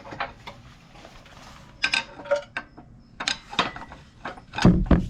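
Irregular metallic clicks and clanks of tools and parts being handled on an engine under teardown, with a heavier, deeper thud near the end.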